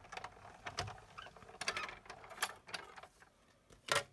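Handling of card stock and embossing-machine plates: scattered light clicks and rustles, with one sharper knock near the end.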